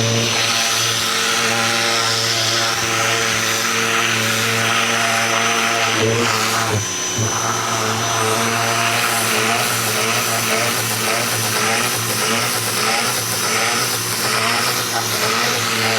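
Ryobi 2000 PSI electric pressure washer running, its motor humming steadily under the hiss of the water jet spraying the fence. About seven seconds in the motor and spray cut out for a split second, then resume.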